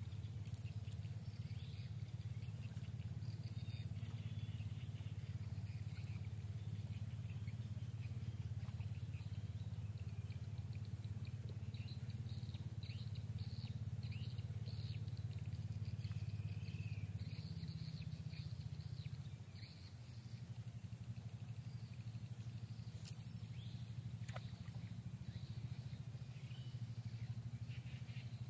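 Birds chirping now and then over a thin steady insect drone and a steady low rumble; the rumble drops off about two-thirds of the way through.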